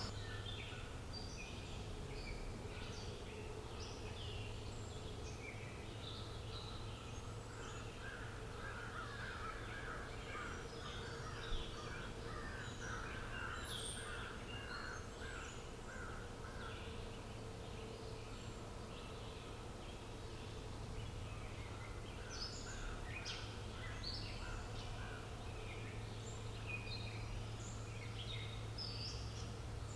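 Birds chirping and singing together, many short calls overlapping, with a fast run of repeated lower-pitched calls for several seconds in the middle. A steady low hum sits underneath, and there is one brief click just before the middle.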